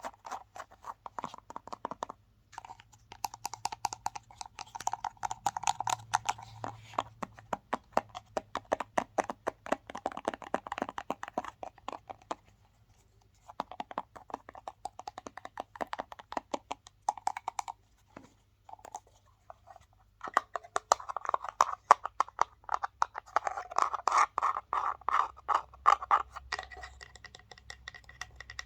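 Fast, hard scratching and tapping on a handheld object, in rapid runs of strokes a few seconds long. There are short pauses about two seconds in, around twelve seconds in, and again around eighteen to twenty seconds in.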